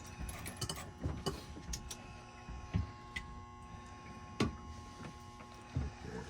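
Scattered light clicks and clinks of hand tools and metal fittings being handled, with three heavier knocks, over a steady electrical hum.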